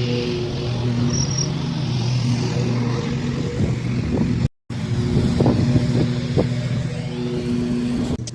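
A small gasoline engine running steadily, with a few sharp knocks a little past the middle and a brief gap of silence about halfway through.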